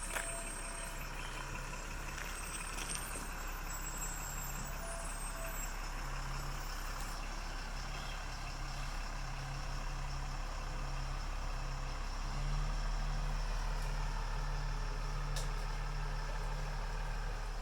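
Diesel engine of an M1079 LMTV military truck running steadily, a low hum with a pulsing lower tone, growing louder about two-thirds of the way through.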